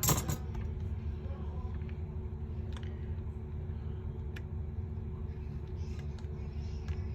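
A short clatter at the start, then a few faint separate clicks of small parts and tools handled during phone reassembly, over a steady low hum.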